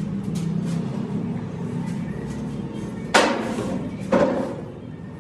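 Two sharp metal knocks about a second apart, each with a short ring, over steady background music; typical of parts being struck during a truck gearbox repair.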